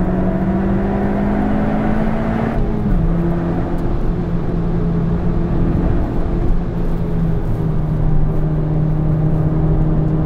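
Toyota Yaris GRMN's supercharged 1.8-litre four-cylinder engine pulling hard on a race track, heard from inside the car. The revs climb for about two and a half seconds, drop sharply at an upshift, then hold steady.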